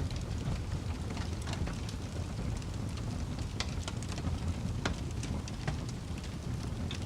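Campfire burning: a steady low rush with frequent sharp crackles and pops from the burning wood.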